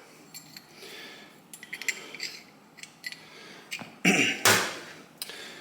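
Light clicks and taps of small metal engine parts being handled, then a louder short rustle about four seconds in.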